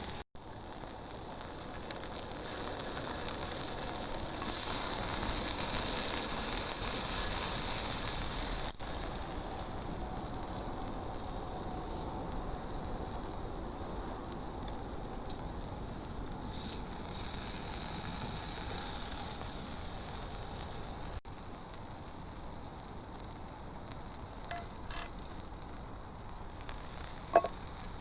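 Steak sizzling on a hot iron griddle: a steady high hiss, cut into a few segments, with a few faint metallic clinks near the end.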